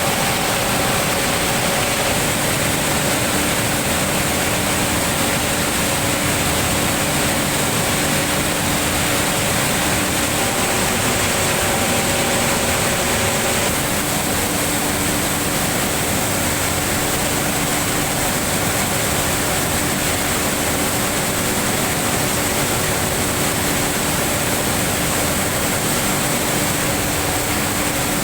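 Steam venting from a palm oil mill's exhaust pipe: a steady rushing noise with faint held tones in it. The uploader puts its unusual sound down to recent additions or repairs to the mill's steam exhaust pipe.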